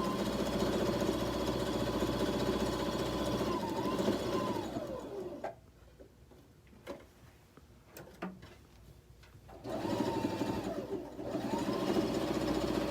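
Sewing machine humming as it top-stitches around a cotton bag; the motor speeds up and slows, stops about five seconds in, a few clicks sound during the pause, and it starts stitching again about ten seconds in.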